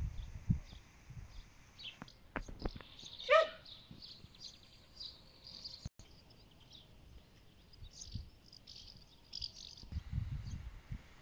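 Small birds chirping, with one loud call about three seconds in that falls steeply in pitch, and a few knocks and low thumps.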